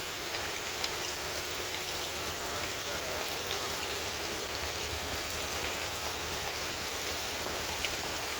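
Heavy rain falling steadily, with the patter of single drops striking through it.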